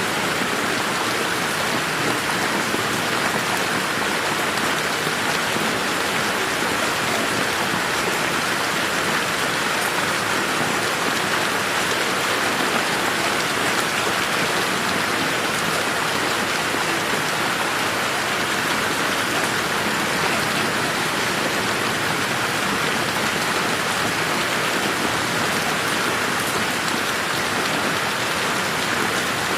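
Steady rain falling on a garden: an even hiss with faint drops, no thunder. The rain is mixed in 8D, panning around a listener on headphones.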